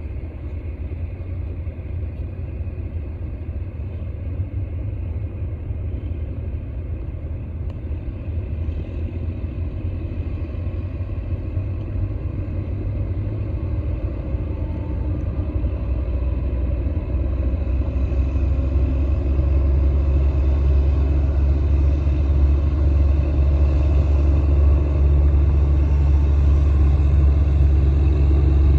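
Squid-fishing boat's engine running with a steady low drone, growing louder about two-thirds of the way through.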